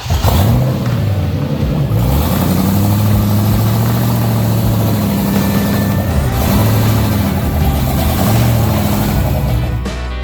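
Ford Bronco II's 347 stroker V8 running under load and revving; its pitch climbs and dips several times, holding steady for a few seconds in the middle.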